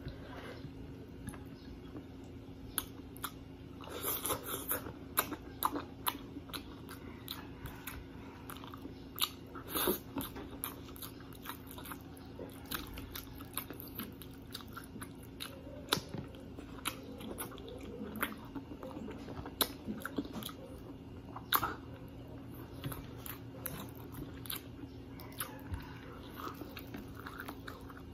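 Close-miked mukbang eating sounds: a person chewing and biting fried tilapia with rice and laing, with wet mouth sounds and many sharp crunches, busiest about four seconds in and again near ten seconds.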